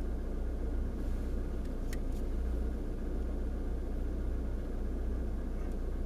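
Car engine idling, a steady low rumble heard from inside the cabin, with a couple of faint clicks about two seconds in.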